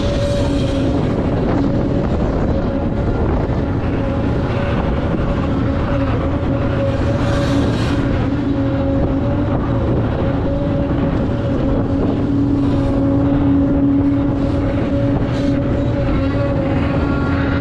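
Heavy diesel earthmoving machinery, an excavator and articulated dump trucks, running steadily with a loud, constant drone at one pitch over a low rumble.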